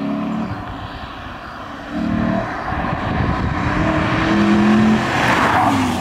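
Ford Shelby GT Mustang's V8 approaching hard, its engine note coming in stretches with short breaks and climbing in pitch, then a loud rush of tyre and wind noise as it passes about five seconds in, the pitch dropping as it goes by.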